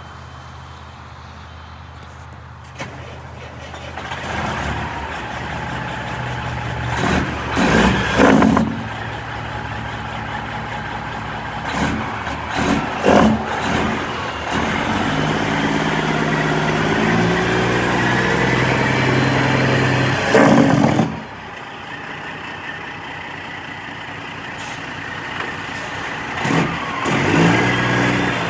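A 2000 Peterbilt 379 tractor truck's diesel engine running and being revved, its pitch rising and falling, with several short loud bursts of noise. It settles back to a lower idle just after two-thirds of the way through.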